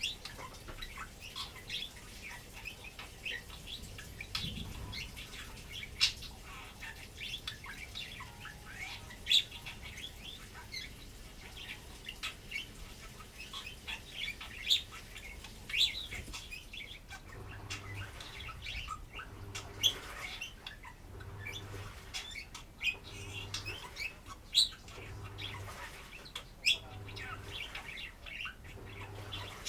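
Pet budgerigar chattering and warbling: a busy run of short chirps and squawky notes. From about halfway, a low pulsing background noise repeats about every one and a half seconds.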